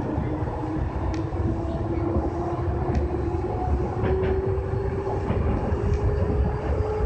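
Kintetsu 6020 series electric train running, heard from inside the front car: a steady low rumble of wheels on rails, with a motor whine that rises slowly as the train picks up speed. A few light clicks from the track.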